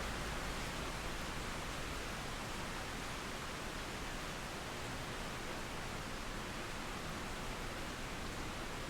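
Steady rain falling: an even, unbroken hiss with no thunder in it.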